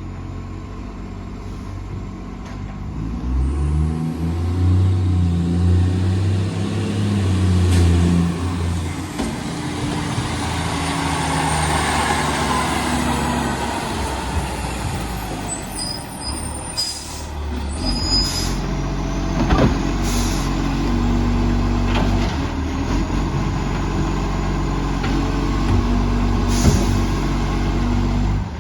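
Side-loader garbage truck's diesel engine revving hard, then settling to a steadier run, its note coloured by a massive exhaust leak. A few sharp knocks come about two-thirds of the way in.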